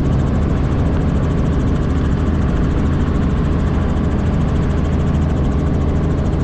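Robinson R44 helicopter in flight: the steady drone of its rotor and six-cylinder Lycoming piston engine.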